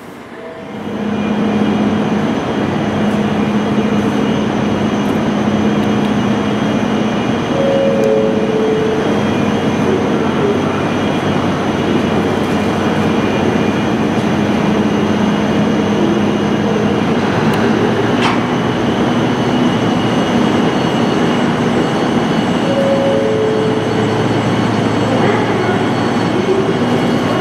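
Train running past at close range: a loud, steady rail rumble that builds about a second in and holds, with a low steady hum under it.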